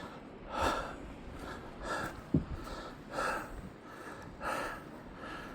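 A man breathing heavily close to the microphone, a breath about every second, winded from shoveling deep snow. A short click about two and a half seconds in.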